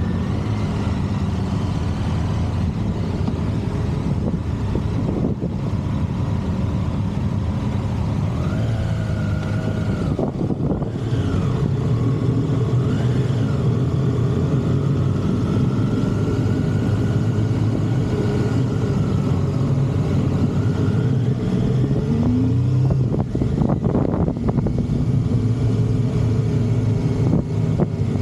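Motorcycle engine running under way on the road, its pitch rising and falling with the throttle and climbing noticeably about three-quarters of the way through.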